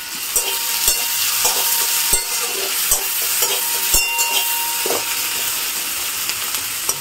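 Chopped onions sizzling in hot oil in a kadai, with a steady hiss. A spatula stirring them clicks and scrapes against the pan at irregular moments.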